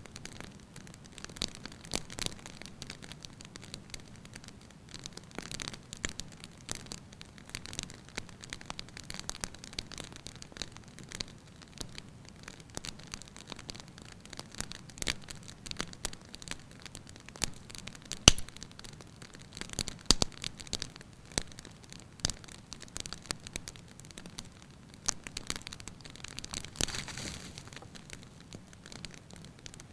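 Wood fire burning in a fireplace: a low hiss and rumble with irregular crackles and pops, one sharp snap about eighteen seconds in.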